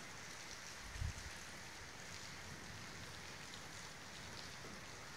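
Steady rain falling, an even hiss, with a brief low thump about a second in.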